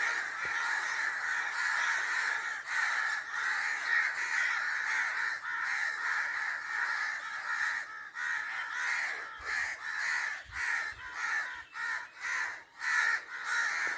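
A crowd of crows squabbling, cawing over one another. The calls run together at first, then break into quick separate caws in the second half.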